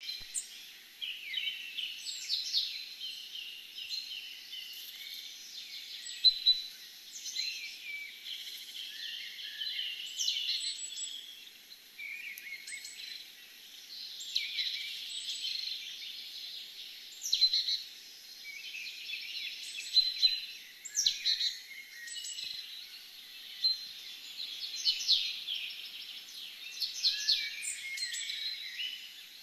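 Songbirds singing and chirping, many quick overlapping calls and warbled phrases with no break.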